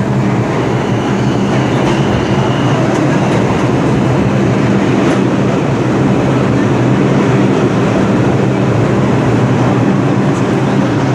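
New York City subway train running through the station, a loud, steady noise with a low hum under it.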